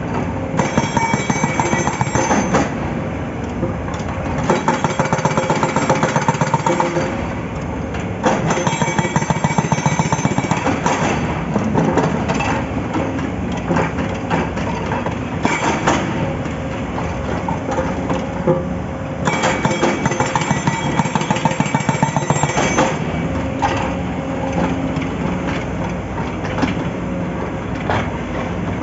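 Excavator-mounted hydraulic rock breaker hammering a large boulder in bursts of a few seconds, with rapid even blows. The excavator's diesel engine runs under load throughout, including the pauses between bursts.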